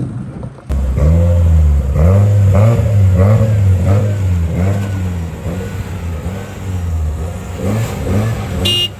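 Car engine revving in quick repeated blips, its pitch rising and falling about one and a half times a second. It starts abruptly under a second in.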